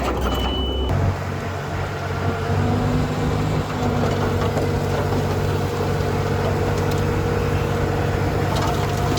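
Diesel engine of heavy earthmoving machinery running steadily. About a second in the engine note changes abruptly to a higher, steady hum.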